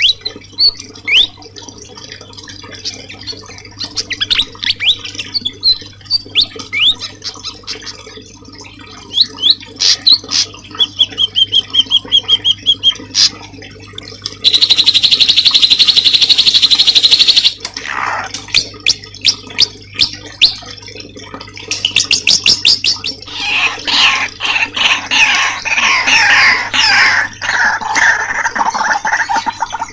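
Assorted songbird calls played as masteran (training song for cage birds): sharp chirps and short whistles, a loud buzzing trill of about three seconds midway, then dense, fast chattering near the end.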